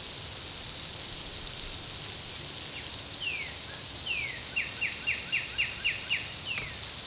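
A songbird calling over a steady outdoor hiss: a few downward-sliding whistles, then a quick run of about eight short, falling notes, and one more falling whistle near the end.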